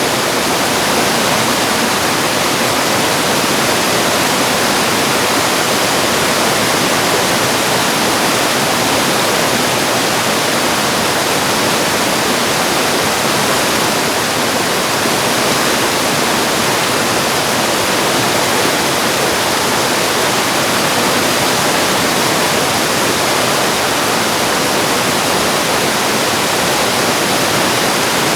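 Mountain valley stream rushing over rocks, a steady, unbroken water rush with small cascades.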